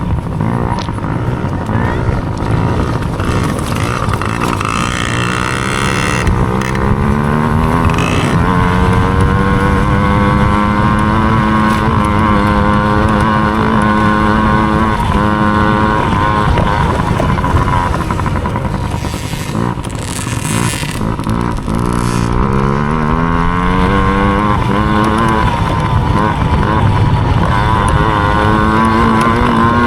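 Small dirt bike engine revving hard under racing load: its pitch climbs as it accelerates, holds high for several seconds, drops away around the middle, then climbs again twice.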